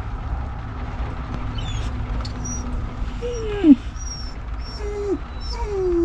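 A dog whining in a moving vehicle: three whines from about three seconds in, the first two short and falling, the last drawn out. A steady low rumble of the car driving runs underneath.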